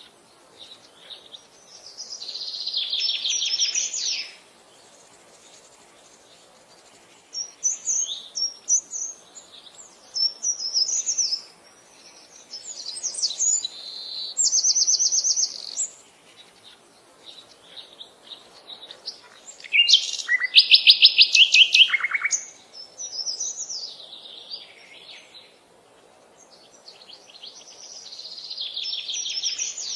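Birdsong: varied phrases of chirps and fast trills come one after another with short pauses between them. The loudest is a rapid trill about two-thirds of the way through.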